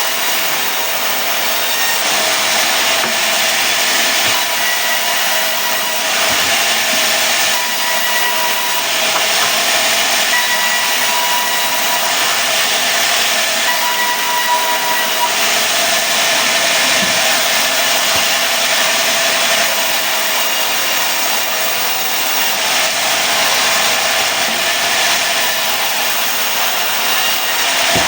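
Sawmill saw cutting through mahogany to make boards: a loud, steady hiss of the blade in the wood, with a faint whine that comes and goes in the first half.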